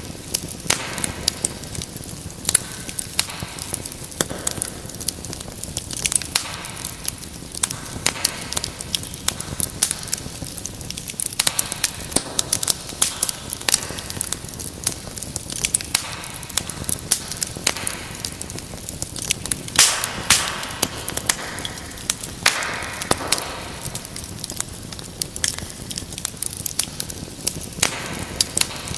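Wood fire crackling and popping, with many sharp snaps over a steady low hiss and a few louder flurries of pops.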